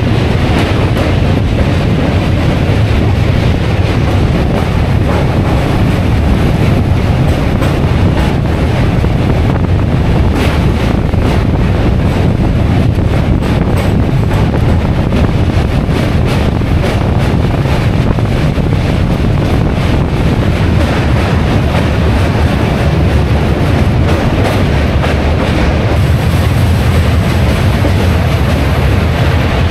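Indian Railways ICF passenger coach running at speed across the Mokama rail bridge over the Ganga: a loud, steady rumble of wheels on rails with constant rattling clicks from the track.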